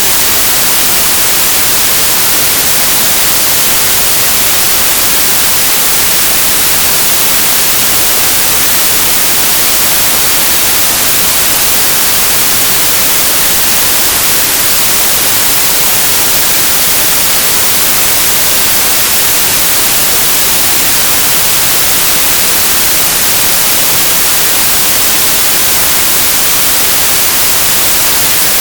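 Synthesized white noise: a steady, even hiss with a flat spectrum, bright and unchanging, with no tones or events.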